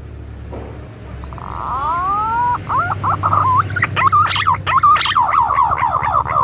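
Green pigeon (punai) calling: a few long rising whistles, then a quick, loud run of warbling, falling whistled notes.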